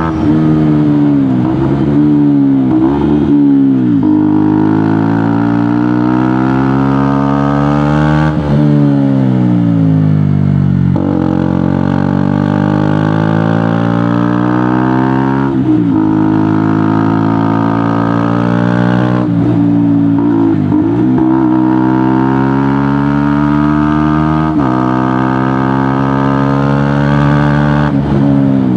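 2018 KTM Duke motorcycle with a GPR aftermarket exhaust, ridden hard. The engine note climbs and drops over and over, with sudden breaks as it shifts gear every few seconds, and blips of the throttle near the start.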